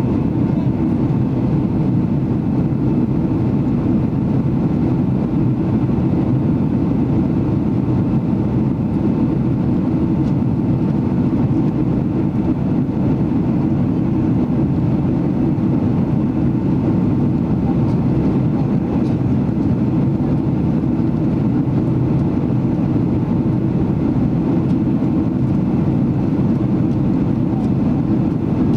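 Steady cabin noise inside a Boeing 767-300ER in flight: an even rush of engine and airflow, with a faint steady tone above it.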